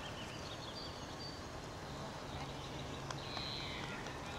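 Outdoor ambience with small birds chirping and trilling in the trees, a clearer trill about three seconds in, over a steady low background noise.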